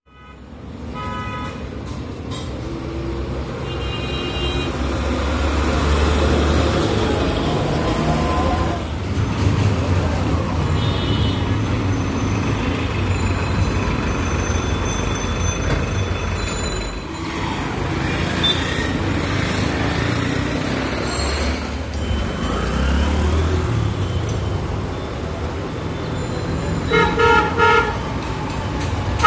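Road traffic with truck engines rumbling as they pass, swelling twice, and horns tooting now and then, with a quick run of short toots near the end.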